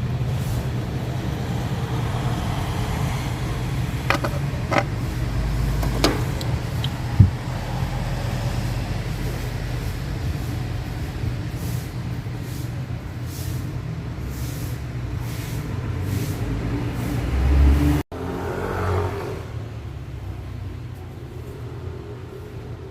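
A vehicle engine running steadily with a low hum, with a few sharp clicks around the middle.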